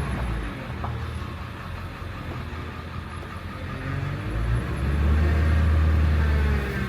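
Vehicle engine running with a deep, low rumble that eases off in the middle and swells again a little after four seconds in.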